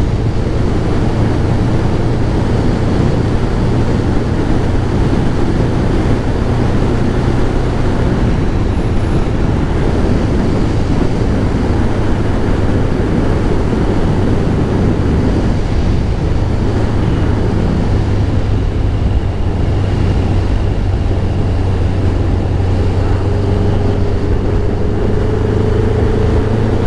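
A Kawasaki ZX-11's inline-four engine running at road speed on the move, its note shifting in pitch about 8 seconds in and again around 16 seconds in, over steady wind and road noise.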